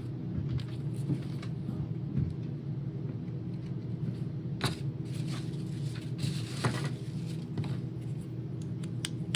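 Plastic parts of an iRobot Roomba's cleaning head being handled and fitted back together, giving a few light clicks and knocks, over a steady low hum.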